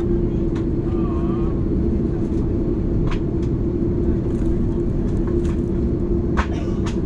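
Steady cabin noise aboard an Airbus A330 on the ground: a constant low rumble with a steady hum, and a few faint clicks.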